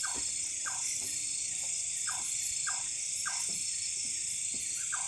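Night chorus of insects in a steady high drone, with frogs giving short calls a couple of times a second.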